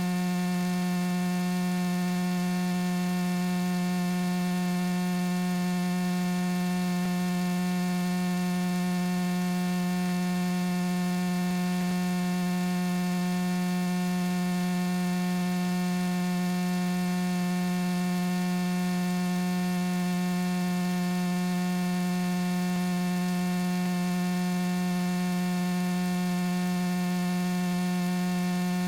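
Luscombe light aircraft in cruise flight, its engine and propeller heard through the cockpit intercom as one steady, unvarying hum with a stack of overtones.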